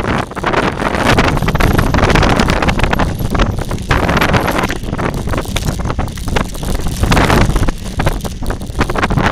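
Wind buffeting the microphone during a fast descent, over a steady rattling and crunching of tyres on a rough dirt trail.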